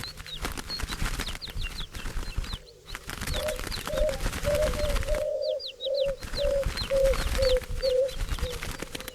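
Turtle doves giving a run of about ten short low purring notes, roughly two a second, from about three seconds in until near the end, over a flock's wings flapping. Small birds' high chirps are scattered throughout.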